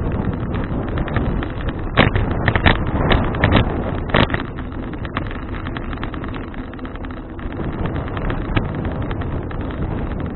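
Wind buffeting an action camera's microphone and tyre rumble from a bicycle being ridden, with a quick run of sharp knocks and rattles about two to four seconds in, as over a bump.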